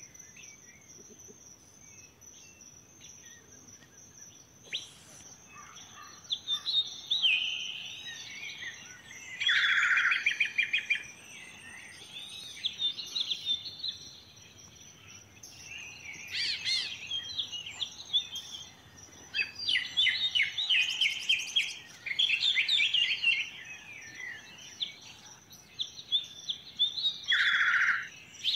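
Birds singing and chirping in repeated short bursts of song, the loudest near the middle and the end, over a steady high-pitched trill.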